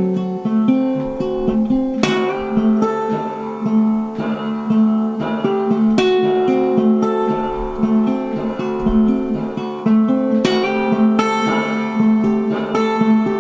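Acoustic guitar music, strummed chords with picked notes and no singing.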